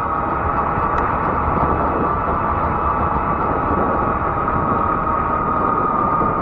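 Fat-tire electric bike riding along at a steady speed: a steady high whine over a continuous rumble of tyres and wind, with a faint tick about a second in.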